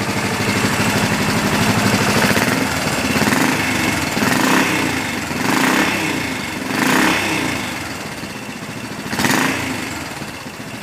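Modified Yamaha SR400's single-cylinder four-stroke engine running, its throttle blipped four times with short revs that fall back to idle.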